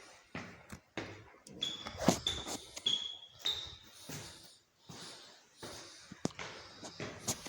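Irregular knocks and taps, with a few short high squeaks around the second and third seconds.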